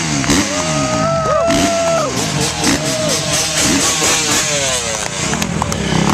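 Dirt bike engines revving up and down, several overlapping, with a held pitched note, possibly music, from about half a second to two seconds in.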